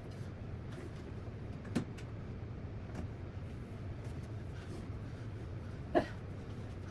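Steady low room hum with two short knocks, one about two seconds in and a louder one near the end, as things are handled during housecleaning.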